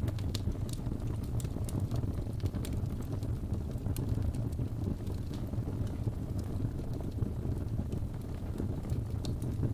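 Wood fire burning in a fireplace: a steady low rumble of flames with frequent small crackles and pops of burning logs.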